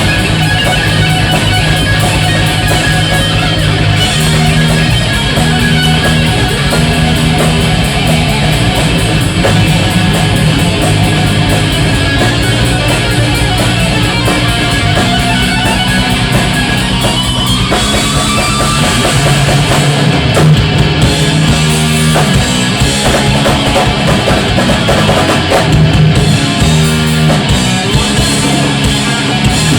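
Heavy-metal band playing an instrumental passage: electric guitar over drum kit and bass, with one rising pitch glide about two-thirds of the way through.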